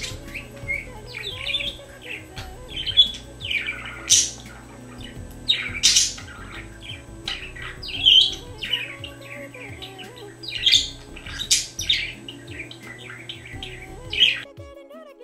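Budgerigar chirping and squawking in quick, sharp, irregular calls, about one or two a second, over a steady low background that cuts off near the end.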